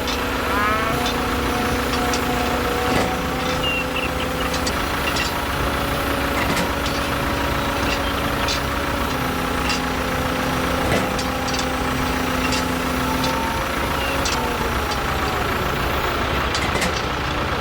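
Small engine of a homemade mini tractor running steadily, its pitch shifting up and down in steps a few times, with scattered clicks and knocks.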